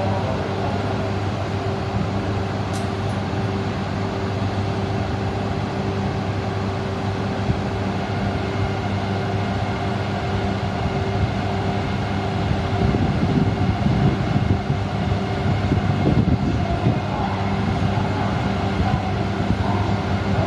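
E2 and E3 series Shinkansen train set with a steady low electrical hum. A louder low rumble comes in about two-thirds of the way through.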